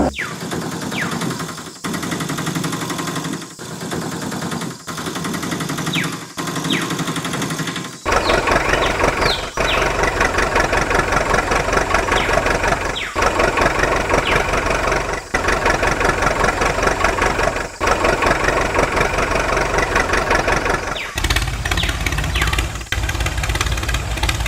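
An engine running with an even beat, getting louder about eight seconds in and changing in character again near the end.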